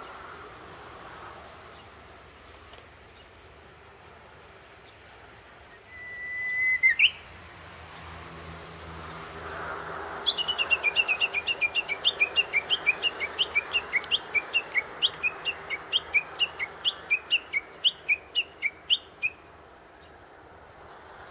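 Japanese bush warbler (uguisu) singing: one "hoo-hokekyo" song, a held whistle ending in a quick rising flourish, about a quarter of the way in. Then comes a long run of rapid repeated "kekyo" notes, about four a second for some nine seconds: the bird's valley-call series (tani-watari).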